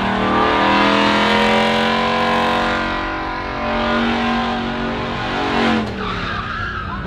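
Truck engine revving hard and held at high revs, the pitch wavering up and down, then dropping off about six seconds in.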